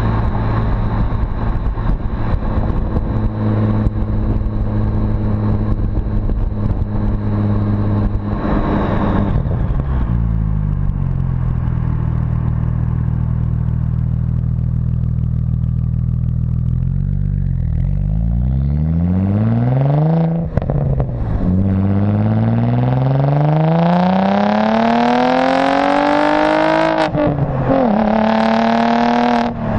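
APR Stage 2+ tuned Audi S4's engine and dual exhaust, first running steadily, then dropping in revs. Near the middle it pulls hard, the pitch rising steeply through the revs, with sudden drops at upshifts about 20 s and 27 s in.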